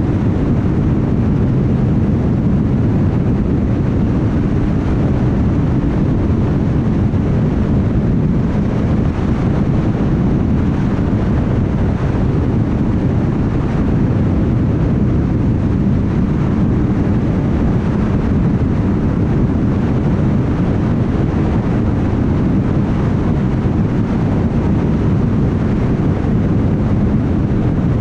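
Car cruising at steady highway speed: a continuous low rumble of tyres on the road surface with wind noise, unchanging throughout.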